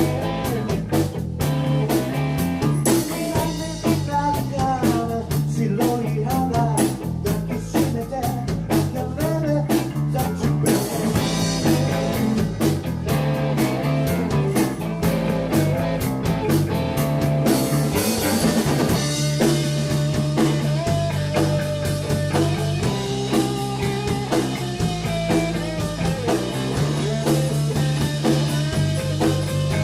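Rock band playing a blues number: guitar, bass and drum kit. The drumming is dense at first and thins out about two-thirds of the way through.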